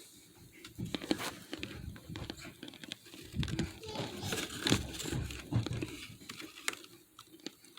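Hard chunks of microwave-steamed starch (arrowroot and cornstarch) crunching and cracking, with crinkling. It comes as an irregular run of crisp crunches and clicks.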